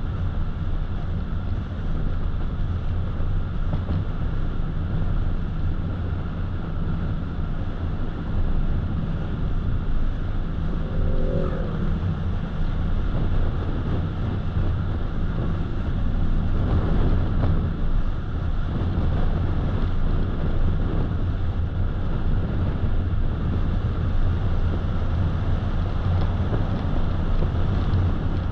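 Road noise of a car driving at speed: a steady low rumble of tyres and engine under a hiss of air and road noise, getting a little louder about sixteen seconds in.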